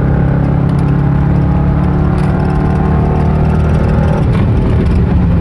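Dodge Charger R/T's 5.7-litre Hemi V8 running with its mid mufflers removed, heard from inside the cabin while driving: a loud, steady exhaust drone.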